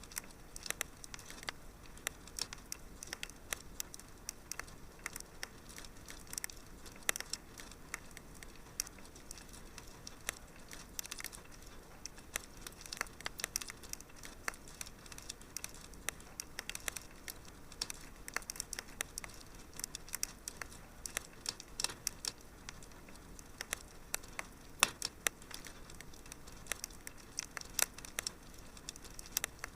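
Wood fire crackling in a fireplace: irregular sharp pops and snaps over a soft steady hiss, with a louder pop about 25 seconds in.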